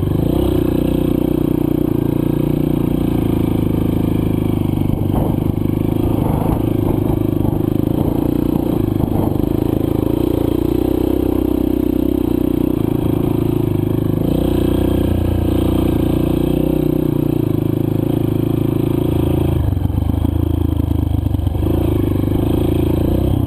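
Single-cylinder four-stroke dirt bike engine, a Honda CRF230, running on the trail, its pitch stepping up and down with throttle and gear changes. Scattered clattering and scraping from the bike over rough ground a few seconds in.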